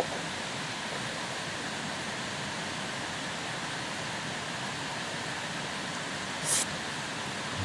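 Steady, even rushing hiss with a single short, sharp, high-pitched scrape or click about six and a half seconds in.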